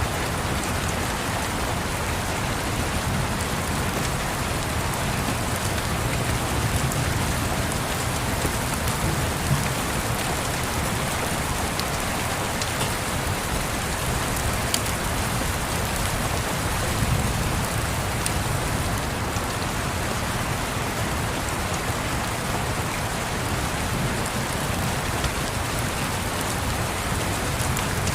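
Steady rain falling on a surface, an even hiss with a low rumble underneath and a few faint ticks.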